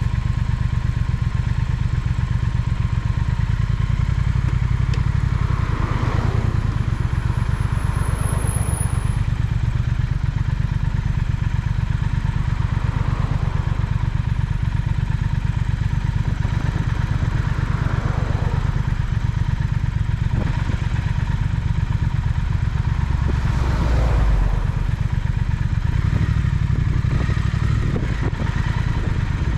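Triumph Speed Twin parallel-twin motorcycle engine running steadily under way, with a strong low drone and several brief swells in the higher range.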